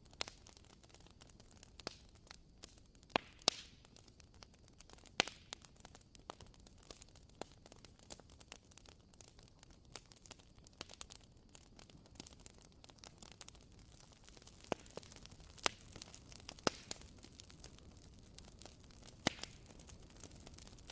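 Wooden-wick candle crackling: irregular sharp pops and ticks, a handful of them louder than the rest, over a faint steady hiss.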